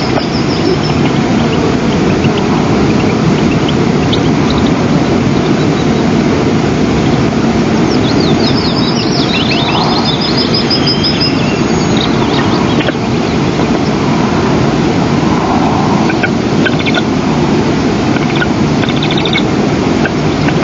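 Steady wind rumble on an outdoor microphone, with bursts of quick, high-pitched bird chirping about eight to twelve seconds in and again near the end.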